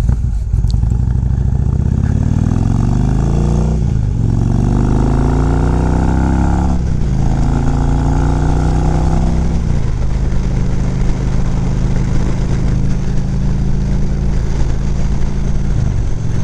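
Motorcycle engine accelerating through the gears, its pitch climbing, with upshifts about four and about seven seconds in. It then settles into steady cruising from about ten seconds in.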